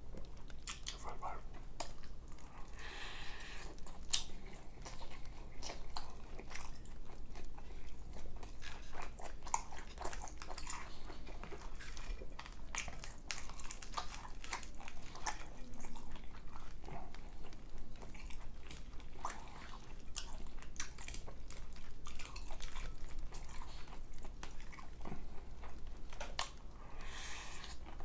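Close-miked chewing and biting of forkfuls of baked macaroni and cheese: a steady run of short clicks and mouth sounds with no pauses.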